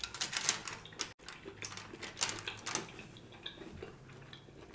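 Close-miked eating sounds of a person biting into and chewing a bone-in ribeye steak: scattered short wet clicks and smacks, busiest in the first second and again about two seconds in.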